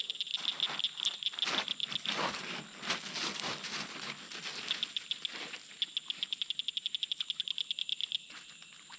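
Insects calling in a fast, even pulsing trill of about eight pulses a second, which breaks off in the middle and starts again later. Through the middle stretch there is irregular clattering and rattling.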